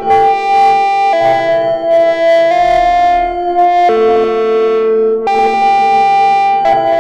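Arturia Brute-series analog synthesizers playing a sequenced pattern, with sustained buzzy notes in a higher part over a lower line, the pitches changing about every second and a half.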